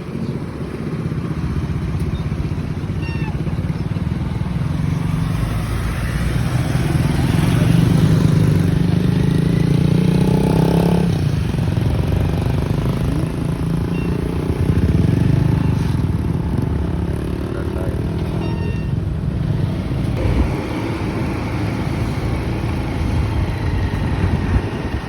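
Motorcycle engine running on the road with traffic noise, growing louder toward the middle; a higher engine tone cuts off sharply about eleven seconds in.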